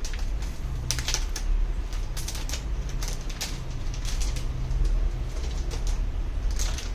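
Scattered light clicks and taps in small irregular clusters over a steady low hum.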